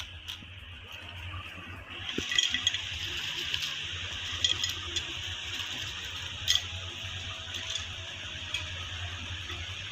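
Potatoes frying in hot oil, a steady sizzle that starts about two seconds in, with scattered crackles and a few clinks of a utensil against the pan.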